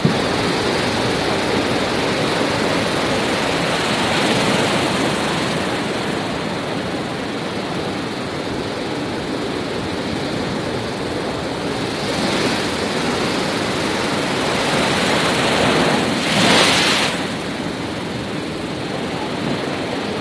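Sea surf: a steady rushing wash of waves, with breakers swelling louder about four seconds in, again around twelve seconds, and most loudly near seventeen seconds.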